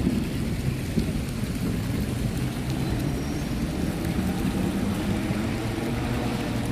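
Steady rain with a constant low rumble of city traffic underneath.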